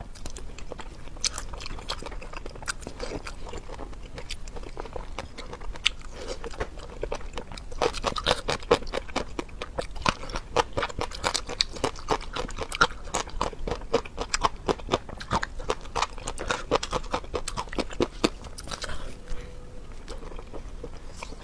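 Close-miked eating sounds: a person chewing with wet mouth clicks and smacks, growing busier and crunchier in the middle stretch before easing off near the end.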